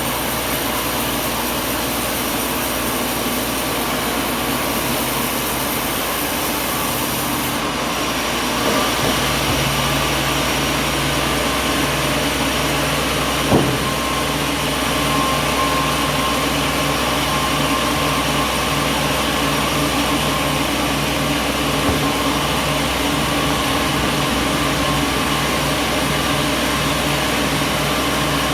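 Sawmill machinery running steadily. About eight seconds in its hum shifts, as a low drone of a few steady tones sets in, and there is one sharp knock about halfway.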